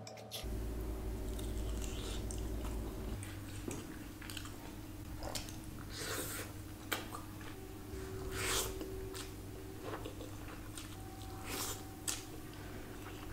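Chewing and mouth sounds of someone eating rice and grilled chicken by hand: a dozen or so short, sharp smacks and crunches spread through, over a steady low hum.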